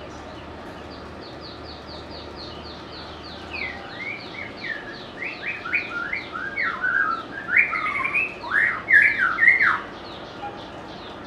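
White-rumped shama singing: a rapid run of short, high falling notes throughout, joined from about three and a half seconds in by loud, varied whistled phrases that stop just before the end.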